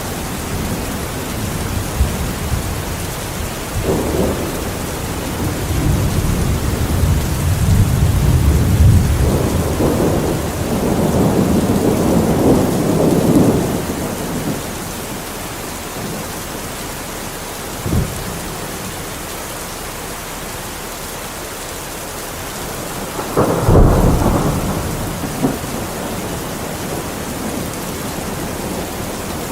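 Steady rain with thunder. A long low rumble rolls through the first half, a short sharp crack comes a little past halfway, and a louder clap about two-thirds in.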